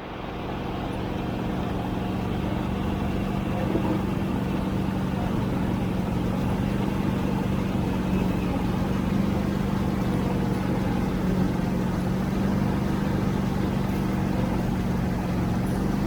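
Tractor engine running at a steady speed, an unchanging drone that starts abruptly and holds throughout.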